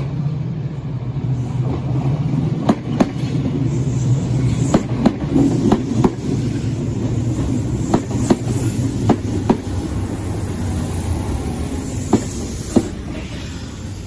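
Kintetsu 16200 series train running on the track: a steady rumble with sharp clacks, many in quick pairs, as its wheels cross rail joints, easing off near the end.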